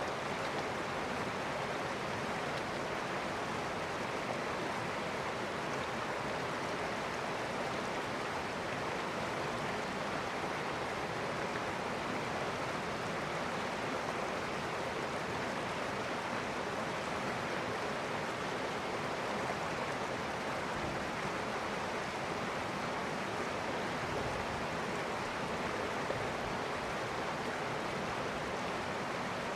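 River water flowing and rushing steadily over stones, an even, unbroken rush.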